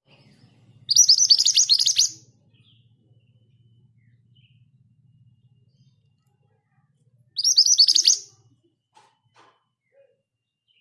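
Scarlet minivet singing: two rapid rolling trills of high, quickly repeated notes, each about a second long, the second coming about six seconds after the first.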